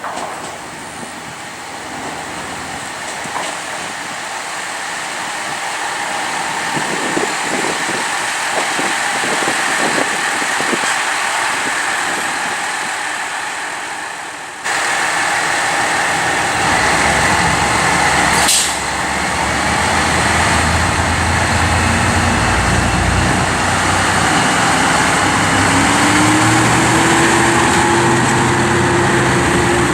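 Diesel railcar sounds. First, train running noise with a few knocks, growing gradually louder. Then, after an abrupt change, a diesel railcar's engine runs, a short air hiss comes about halfway through, and the engine revs up with a steadily rising tone as the railcar pulls away.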